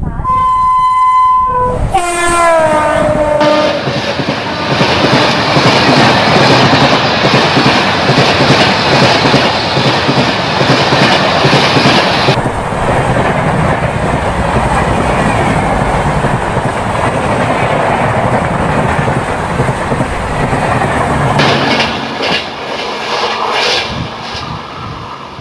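Express train passing at speed behind a WAP-7 electric locomotive: its horn sounds, then drops in pitch as the locomotive goes by, followed by the coaches rushing past with wheel clatter over the rails, fading in the last few seconds.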